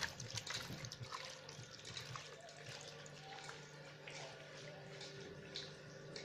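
Faint wet squishing and small clicks of a chicken marinade being mixed in a vessel, with a steady low hum underneath.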